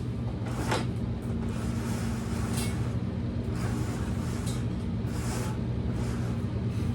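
Steady low mechanical hum, with a few brief faint rustles or clicks over it.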